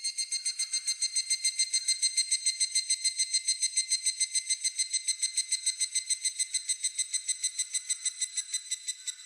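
Evening cicada (higurashi) calling: one long run of rapid, evenly repeated high-pitched pulses, about eight a second, that swells at the start, holds steady, then tails off slightly and stops.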